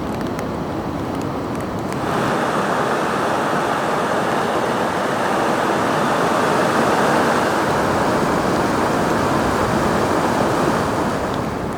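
Steady rushing of a mountain river or waterfall, stepping up to a louder, fuller rush about two seconds in.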